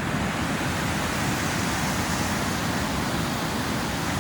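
River water rushing past in a steady, unbroken noise.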